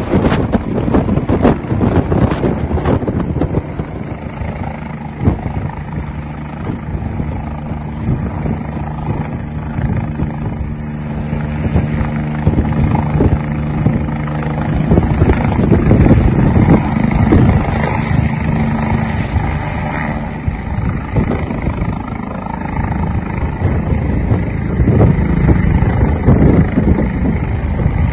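Airbus H145 twin-turbine helicopter landing, its rotor and turbines running loud and steady, growing louder about halfway through.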